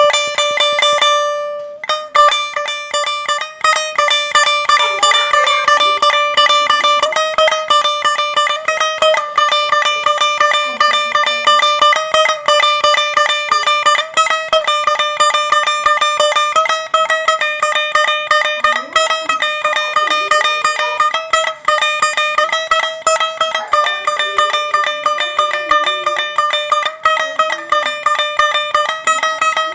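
Instrumental music on a plucked string instrument, a fast, even stream of picked notes mostly on the same few pitches.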